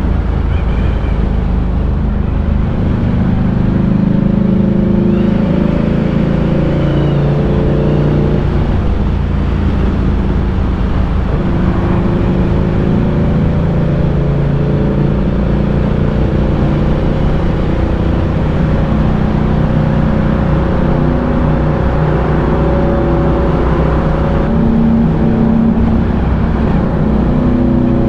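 Ducati Diavel 1260's V-twin engine under way, its note rising and falling as the rider works the throttle and gears, over a steady rush of wind.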